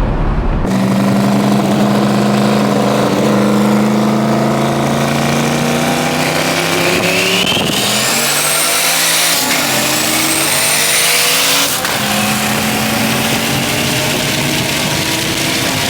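A performance car's engine running hard on a track, its pitch holding and then climbing and falling. A high whine rises alongside it from about eight seconds in and cuts off suddenly near twelve seconds.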